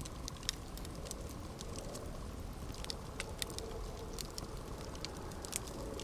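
Campfire burning: wood crackling with irregular sharp pops, the loudest about half a second in and another near the end, over a steady low rumble.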